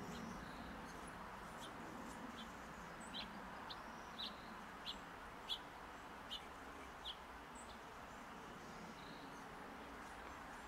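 A bird giving a steady series of about seven short, high chirps, roughly one every half to three-quarters of a second, over faint background hiss.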